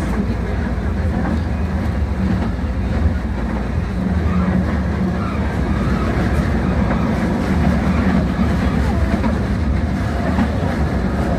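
Steady low rumble of outdoor city ambience with faint voices of people.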